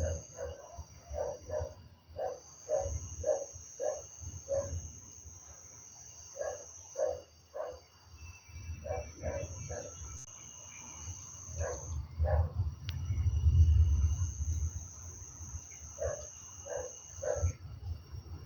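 Insects and frogs calling after rain. A steady high-pitched insect trill drops out a few times and resumes, over series of short repeated frog calls about two or three a second. A low rumble swells up in the last third.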